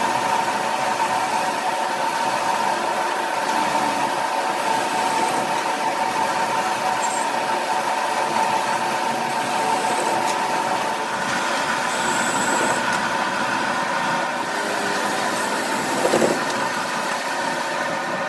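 A machine running steadily, with a constant hum and tone, and a brief louder clatter about sixteen seconds in.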